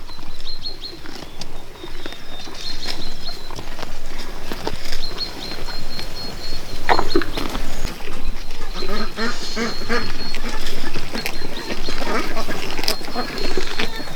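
Domestic poultry calling in runs of short, repeated calls, most of them in the second half.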